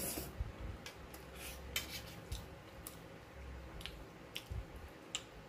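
Close-up chewing of a forkful of pasta: a string of short wet mouth clicks and smacks, about one or two a second, over a low hum.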